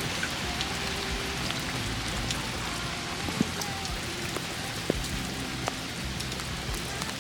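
Steady rain falling, with a few louder single drops ticking out now and then over a faint music bed.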